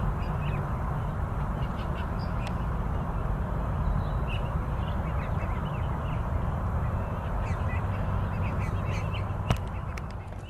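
Outdoor wildlife ambience: a steady low rush of background noise with scattered short bird calls throughout, and one sharp click near the end.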